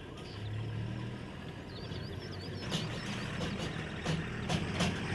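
A vehicle's engine idling with a steady low hum while small birds chirp again and again. Several sharp clicks or knocks come in the second half.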